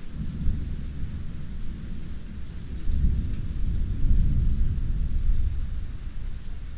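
Rolling thunder rumbling low under steady rain, swelling about three seconds in and easing off toward the end.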